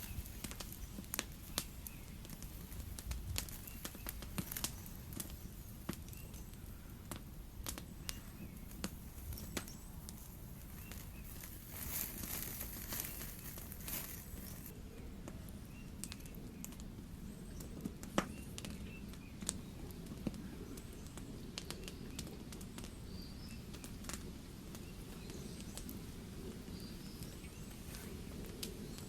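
Campfire crackling, with scattered sharp pops from the burning wood all through and a brief hiss about twelve seconds in.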